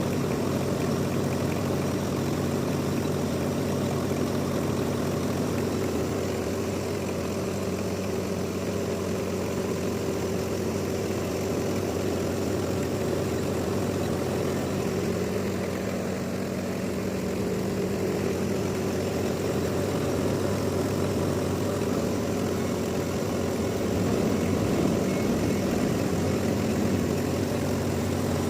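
Sawmill machinery running steadily, a low engine-like hum that holds level throughout.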